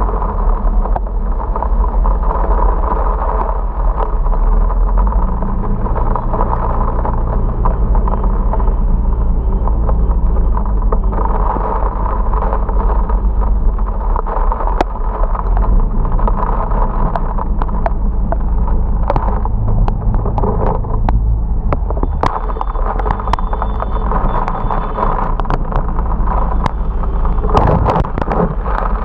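Motorcycle riding through heavy rain: the engine runs steadily under a loud wash of wind and rain noise on the action camera's microphone, with scattered sharp ticks that grow thicker near the end.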